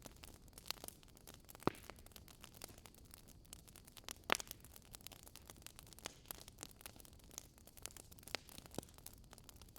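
Wood fire burning, crackling faintly with scattered small clicks and a few sharper pops, the loudest about one and a half seconds and four seconds in.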